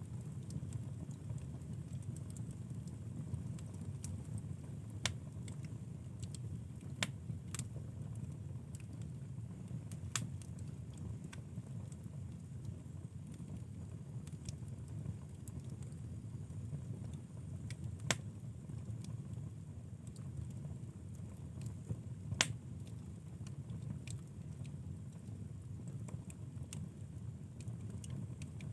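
Wood fire burning in a fireplace: a steady low noise with scattered sharp crackles and pops from the burning logs, a few of them louder than the rest.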